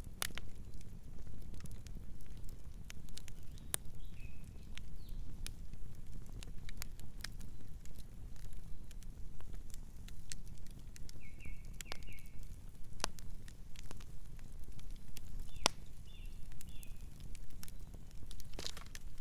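Fire crackling, with irregular sharp pops over a low steady rumble. A few short bird chirps come in three brief bouts, in the first quarter, the middle and the last third.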